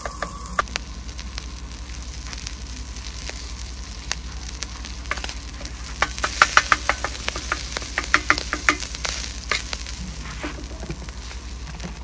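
Sausage frying with a steady sizzle, while a cooking utensil clicks and scrapes against the cookware, in a quick run of taps in the middle.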